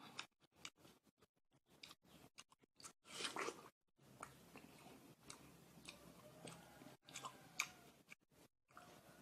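Mouth sounds of eating watermelon: soft bites and chewing of the juicy flesh, with scattered small wet clicks and a louder burst about three seconds in.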